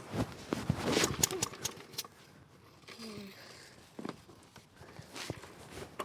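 A Mountfield Emperor push mower's petrol engine being pull-started from cold on full choke. About a second in, the recoil cord is yanked and the engine turns over with a quick run of ticks, but it does not catch. There are smaller cranking sounds later on.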